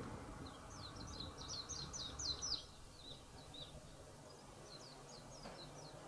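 Small birds chirping: quick runs of short, high, falling chirps, a busy run in the first couple of seconds and another shorter run near the end, over faint steady background noise.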